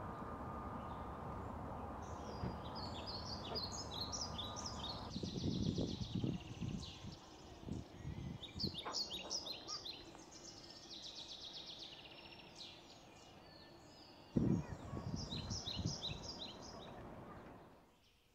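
Small birds singing in repeated runs of quick, high chirping notes, over a steady outdoor background noise. There are a few low bumps, loudest about 14 seconds in.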